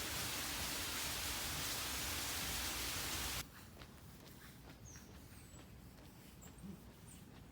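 A steady rushing hiss that cuts off abruptly about three and a half seconds in, leaving quiet forest ambience with sparse faint ticks and a few short, high bird chirps.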